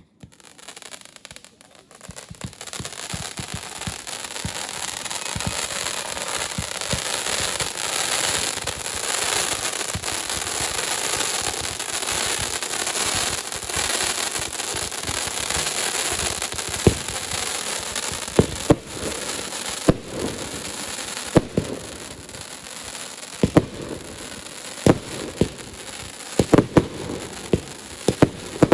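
Fireworks display heard from some way off. A dense, unbroken noise of many small effects builds up in the first couple of seconds and carries on. From about halfway in, sharp bangs of bursting shells stand out over it and come more and more often.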